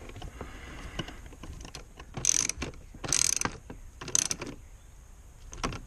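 Socket ratchet wrench turning a nut, with faint clicks and then three short bursts of ratcheting.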